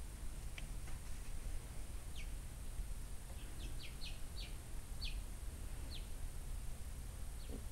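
Small bird chirping: a string of about ten short, high chirps, each dropping quickly in pitch, coming irregularly and bunched together in the middle.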